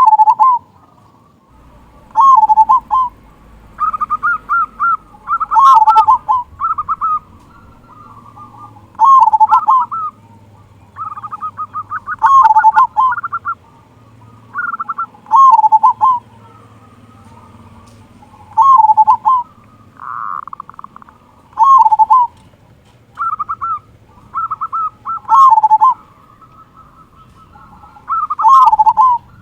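Male zebra dove (perkutut) singing its cooing song over and over: phrases of quick short notes ending in a full, drawn-out 'kung', repeated every two to three seconds.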